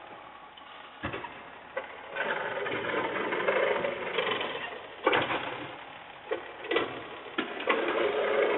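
Mechanical clanking and rattling that swells and fades, with several sharp knocks scattered through it.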